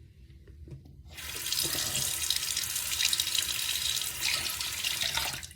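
Tap water running into a sink for about four seconds, switched on about a second in and cut off abruptly just before the end.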